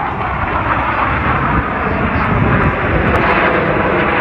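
Loud, steady jet engine noise from the Blue Angels' F/A-18 Super Hornet jets in flight.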